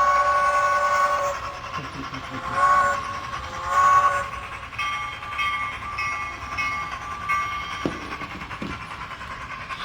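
HO scale model diesel locomotive's sound decoder playing its horn through the small onboard speaker: one long chord at the start, then two shorter blasts. After that comes a run of short, evenly repeated ringing tones like the locomotive's bell, with two faint knocks near the end.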